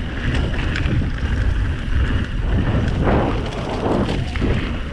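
Wind buffeting the microphone of a mountain biker riding downhill, over the rumble of tyres on a rough dirt trail, with short rattles and knocks as the bike runs over bumps.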